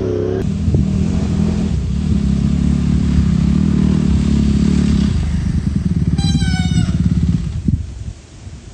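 Off-road vehicle engine running hard and loud, dropping away near the end to faint wind noise. A brief high tone is heard about six seconds in.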